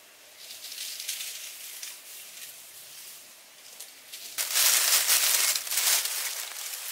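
Close crinkling and rustling, growing much louder about two-thirds of the way in.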